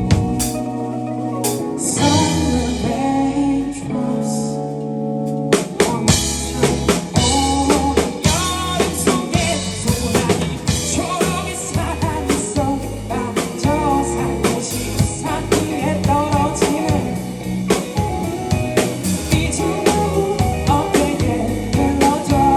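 Live band playing a pop-rock song. Held chords open it, and about five seconds in the drum kit comes in with snare hits and the full band under a sung vocal line.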